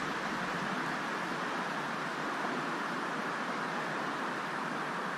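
Steady, even rushing of flowing creek water.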